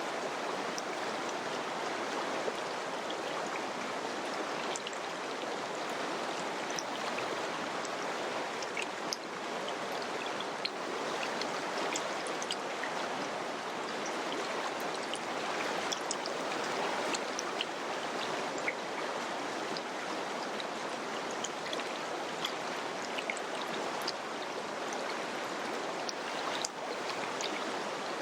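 Mountain river flowing over rocks, a steady rushing of water with small splashes and drips scattered through it.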